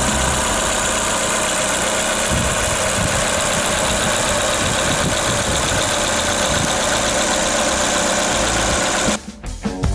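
2015 Chevrolet Tornado's four-cylinder gasoline engine idling steadily, heard close up under the open hood; it cuts off about nine seconds in.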